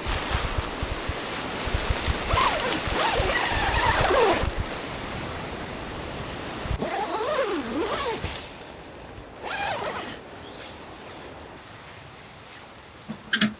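Strong gusting wind buffeting the microphone, loudest in the first few seconds and easing off after, with a wavering, whining tone rising and falling twice.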